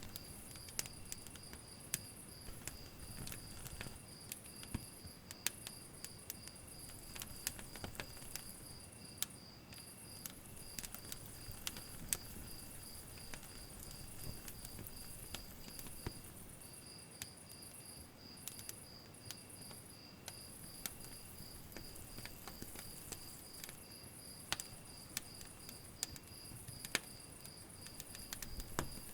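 Wood fire crackling, with irregular sharp pops and snaps. Under it, a cricket chirps steadily about three times a second, and a higher insect trill comes and goes.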